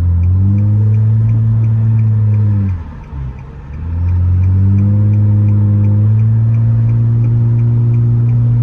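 Straight-piped Nissan Altima exhaust under hard acceleration. The loud engine note climbs and holds, drops briefly about three seconds in, then climbs again and holds high.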